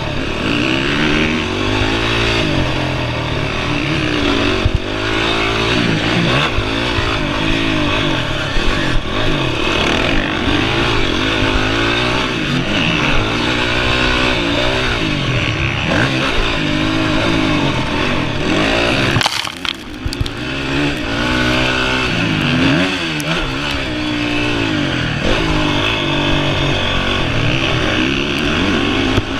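Honda CRF 450R's single-cylinder four-stroke engine revving hard on a motocross track, its pitch rising and falling over and over as the throttle opens and closes. About nineteen seconds in it drops away briefly before picking up again.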